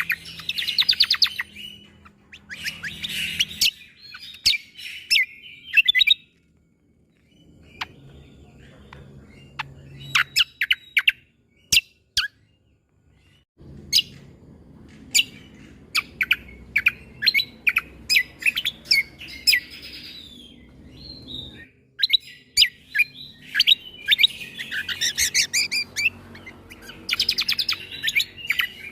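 Cucak kombo (kecial kombok) singing: bursts of sharp, clipped 'shot' notes (tembakan) and fast chattering trills, broken by short pauses.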